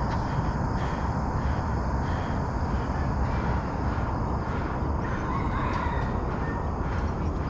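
Steady wind rumble on an action camera's microphone while running outdoors, with a few faint short bird calls now and then.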